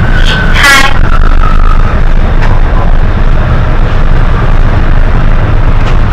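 Hino HS8JRVL city bus heard from inside while under way: a loud, steady low engine and road rumble.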